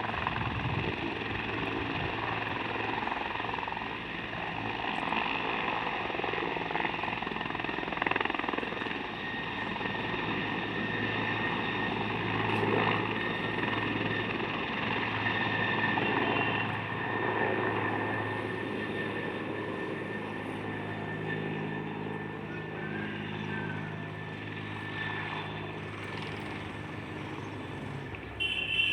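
Helicopter running: a steady, continuous drone of engine and rotor.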